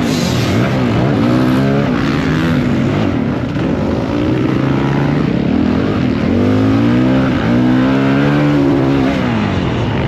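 Motocross bike engine running hard, its pitch rising and falling repeatedly as the throttle is opened and closed.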